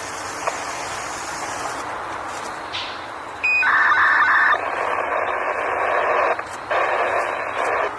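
Radio static hiss in a narrow, tinny band, cutting out briefly and coming back, with a run of short electronic beeps about halfway through.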